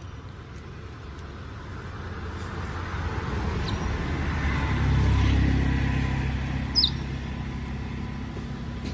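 A motor vehicle passing by, its engine rumble building to its loudest about five seconds in and then fading away. A short high squeak cuts in near the seven-second mark.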